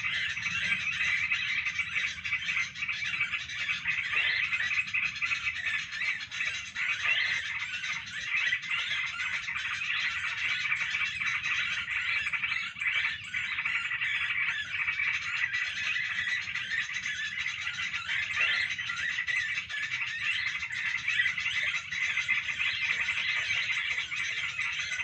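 A dense, continuous chorus of many small, high chattering animal calls overlapping without pause.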